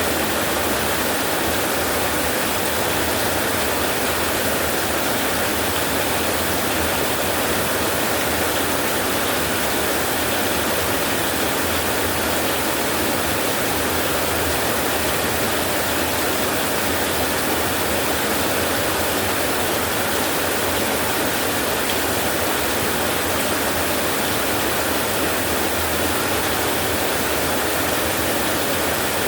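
Steady rainfall, an even unbroken hiss with no thunder heard.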